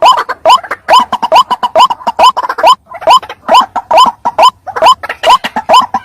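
White-breasted waterhen calling: a loud, rapid series of short rising notes, about two or three a second, with a brief break near the middle.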